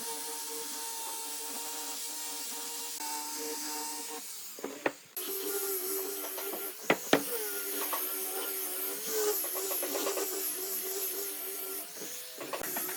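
Electric wood lathe or similar woodworking power tool running with a steady motor hum. About four seconds in the sound breaks off briefly with a couple of sharp knocks, then the tool runs on a little lower in pitch with a hiss of cutting wood and a few more knocks.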